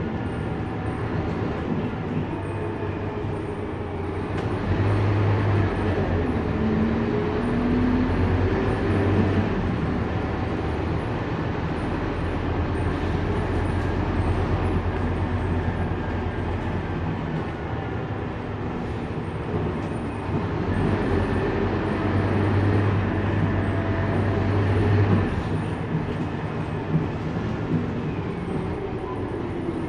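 Scania K230UB city bus's diesel engine running under way, pulling harder with a rising pitch about five seconds in and again about twenty seconds in, over steady road noise.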